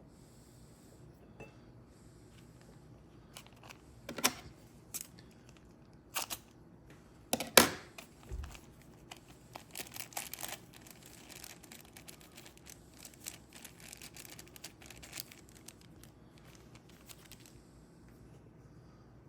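Small plastic parts bag crinkling and rustling while lock springs are handled, with several sharp clicks. The sounds come in short bursts, loudest about four to eight seconds in, with quieter stretches between.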